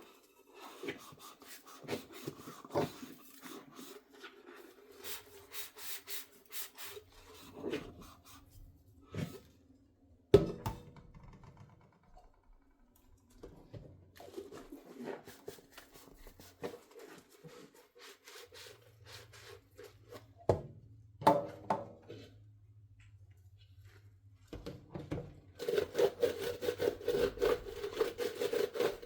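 Dishes being hand-washed at a sink: a sponge rubbing and scrubbing over dishes, with a few sharp knocks of dishes set down or bumped. It grows louder and busier near the end.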